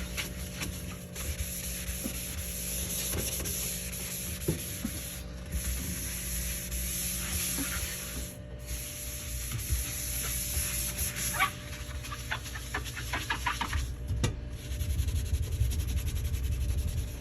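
Refrigerator being cleaned: rubbing and wiping on shelves and surfaces, with a run of light clicks and clinks of shelves and containers being handled about two-thirds of the way through, over a faint steady hum.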